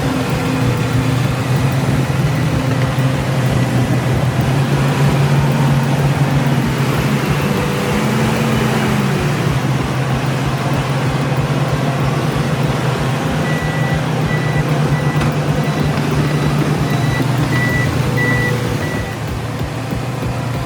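Heavy truck and bulldozer diesel engines running steadily, the revs briefly rising and falling about eight seconds in. A back-up alarm beeps in the second half.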